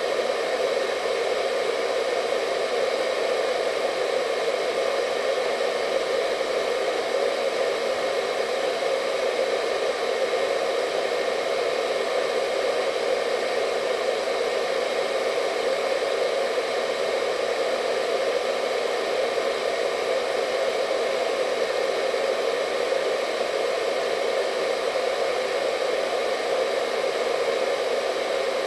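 Hair dryer running steadily: a constant rush of blown air with a faint steady motor whine above it, unchanging throughout.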